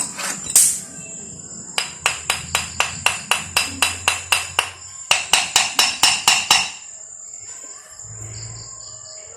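Metal tapped with a hammer in quick, even strikes, about four a second, in two runs, with crickets chirping steadily behind.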